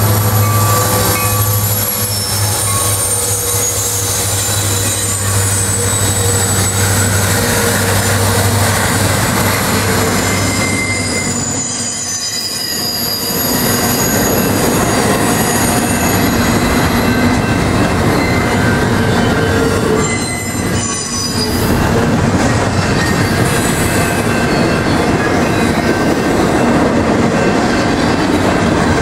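A Kansas City Southern freight train passing: the EMD SD70ACe diesel locomotives' steady low engine drone, which gives way about midway to the rumble of double-stacked container well cars rolling by. High-pitched wheel squeal runs over the rolling noise.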